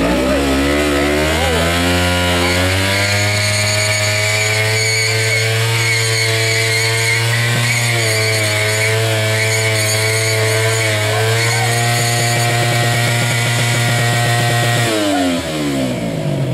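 Kawasaki Ninja sportbike engine revved hard and held at high revs during a burnout, the rear tyre spinning. The revs climb over the first few seconds, hold steady with a slight waver, then drop sharply about fifteen seconds in.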